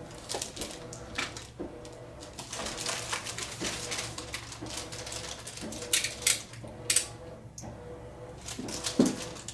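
Packaging being handled: irregular crackling and scraping of plastic wrap and packing tape being pulled off, with the loudest snaps around six to seven seconds in and again near the end. A faint steady hum sits underneath.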